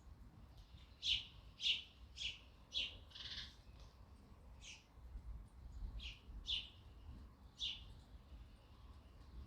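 Sparrow chirping: a run of five short chirps about half a second apart starting about a second in, then four more spaced out through the rest, over a faint low rumble.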